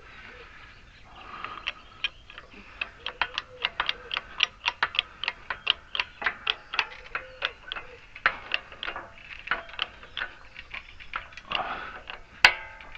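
A long run of sharp, ticking metallic clicks, about three a second, as a new front wheel bearing is worked into a Honda Fit's steering knuckle, with one sharper crack near the end.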